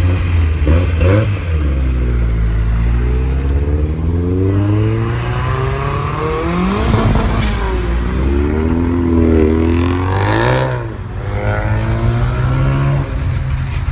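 Car engines revving and accelerating, the pitch climbing and dropping again and again as the cars pull away and change gear. There is a louder, sharper burst of revving about ten seconds in.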